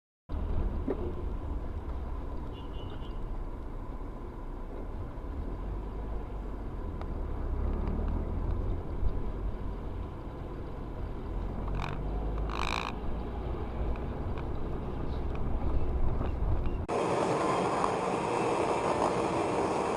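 Vehicle driving noise picked up by a dash camera: a steady low rumble, with a short high-pitched squeal about 12 seconds in. Near the end the sound changes abruptly to a brighter hiss of traffic noise.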